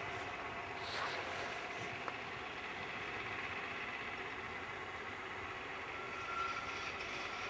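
Rhaetian Railway train running steadily, with a brief high tone about six seconds in.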